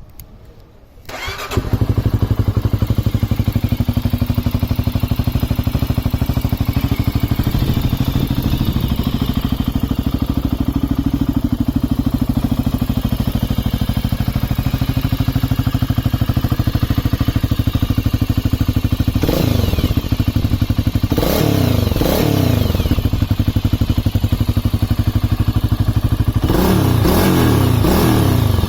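Honda CB400SS single-cylinder engine breathing through an Asakura slip-on muffler, starting up about a second in and then idling with an even beat. Near the end the throttle is blipped several times, the revs rising and falling in short bursts.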